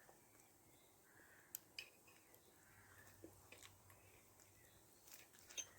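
Near silence: faint outdoor background with a few brief, sharp clicks scattered through it.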